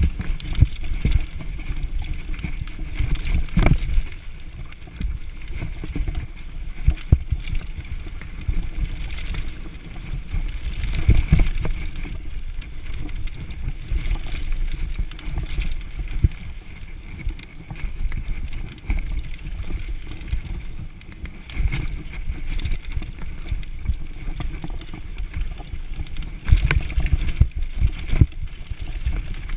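Mountain bike descending a rough downhill trail: a steady low rumble from the tyres on the ground, broken by many irregular knocks and rattles as the bike hits bumps.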